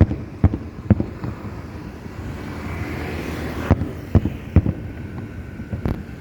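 Aerial fireworks bursting: a run of sharp booms, three in the first second and another cluster about four seconds in, over a steady rumble from the display.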